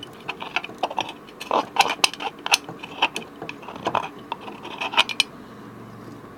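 Small metal ceiling-fan parts clinking and tapping as they are handled, in irregular clicks with short bright rings. The clinking stops about five seconds in.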